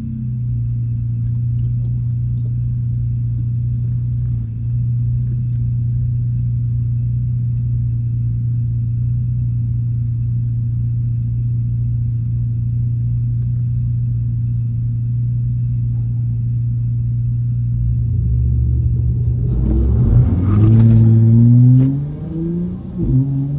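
The 2019 Dodge Charger's 3.6-litre Pentastar V6 idles steadily, heard from inside the cabin. About 20 seconds in it revs up hard for a full-throttle launch, climbing in pitch. Near the end the pitch drops briefly at an upshift, then climbs again.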